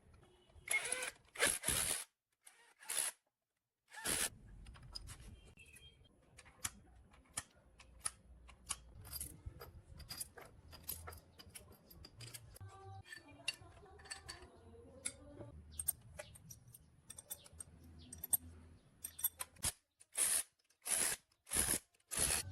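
Workshop handling noise: a run of sharp clicks and taps, with several short, loud hissing or rasping bursts near the start and again near the end.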